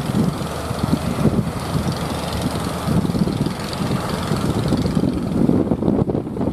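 Strong wind buffeting the microphone over the low, steady rumble of fishing boat engines.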